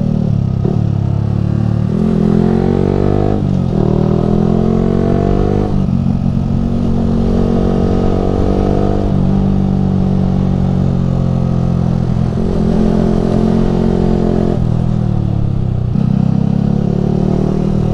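Yamaha R15 v3's 155 cc single-cylinder engine through a Ronin Musashi aftermarket exhaust, under way. The revs climb and drop back again and again, several times across the stretch, as the rider works the throttle.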